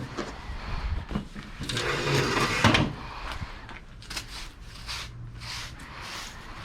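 Broom sweeping a porch floor in short strokes, with a louder scraping stretch of about a second about two seconds in.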